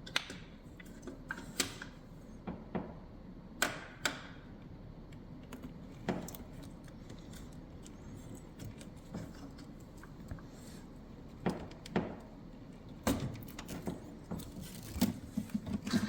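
Metal hand tools and parts clinking and tapping irregularly as they are handled, a string of separate sharp clicks with a quicker cluster near the end.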